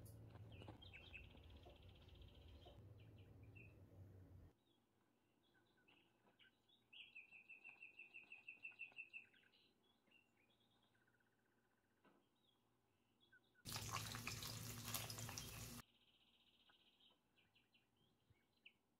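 Faint bird song: short chirps and quick, rapidly pulsed trills, repeated several times. A brief burst of hissing noise comes about 14 seconds in.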